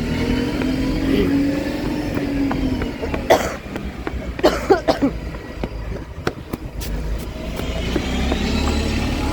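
Road vehicle engine running past in traffic, its hum rising and then falling in pitch over the first few seconds, with a few short sharp noises in the middle.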